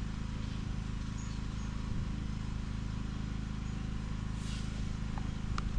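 Steady low hum of a running engine or motor, with a faint click near the end.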